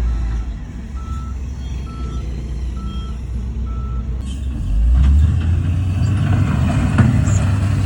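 Heavy diesel machine's reversing alarm beeping four times, a little under a second apart, over a low engine drone; the beeping stops about four seconds in and the diesel engine revs up, rising in pitch and level.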